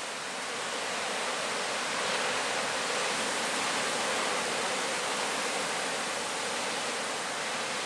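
Steady rushing noise of wind and Lake Superior surf breaking below the cliffs, with no distinct events.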